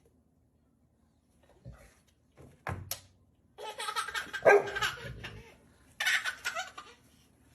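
A dog vocalising in noisy bursts: a few short sounds, then a longer run of about two seconds and a shorter one near the end.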